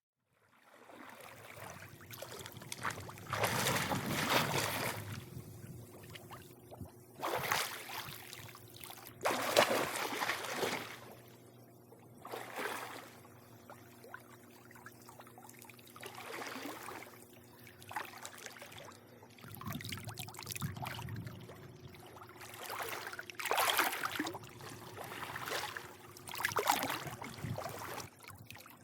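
Pool water lapping and sloshing against the edge in irregular splashy surges every couple of seconds, with the loudest around four and ten seconds in, over a faint steady hum.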